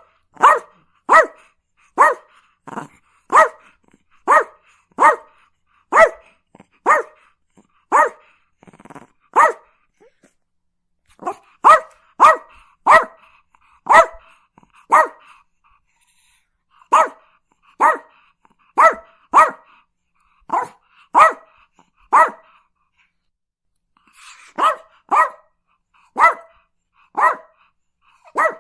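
A dog barking repeatedly: short, sharp barks of the same pitch, roughly one to two a second, broken by a few pauses of a second or two.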